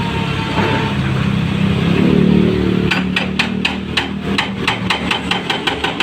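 Backhoe engine running steadily, then about three seconds in a rapid, regular hammering starts, about four to five blows a second, over the engine.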